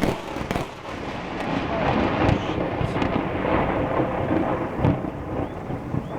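A lightning strike about 20 metres away: a sharp crack right at the start, then loud thunder rumbling that builds over the next two seconds and carries on, over falling rain.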